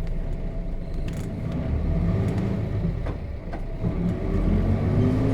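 Nissan Diesel FE6 straight-six diesel of a KC-RM211GSN route bus pulling away, heard from inside the bus. The engine note rises under acceleration, drops briefly about three and a half seconds in at a gear change on the five-speed manual gearbox, then climbs again, with a few light knocks and rattles.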